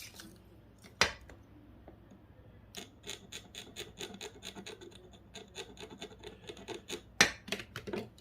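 Scraping on a small circuit-board piece from a GPS unit: a run of short, quick scratching strokes, with a sharp knock about a second in and another near the end. The scraping exposes the plating to check whether it is gold.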